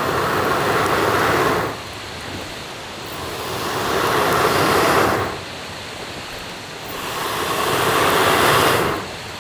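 Someone blowing hard on a campfire to get it burning: three long breaths, each swelling for about two seconds and cutting off sharply.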